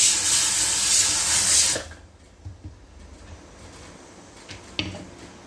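A loud, steady hiss in a kitchen that cuts off abruptly about two seconds in, followed by quiet with a couple of faint clicks near the end.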